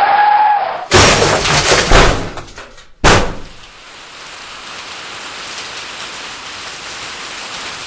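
A long high screech breaks off into a car crash: about a second in, loud smashing impacts with breaking glass, two more hits following over the next two seconds. Then steady rain hiss alone.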